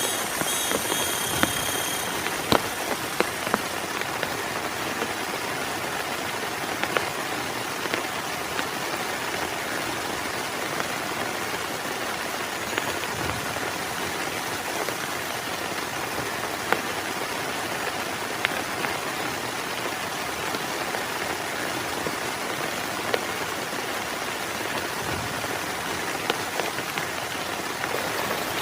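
Heavy rain falling steadily, with scattered sharp drop strikes throughout.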